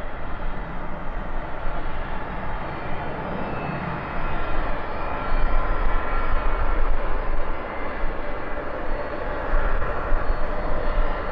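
Jet airliner's engines running: a steady rumble with a faint whine on top.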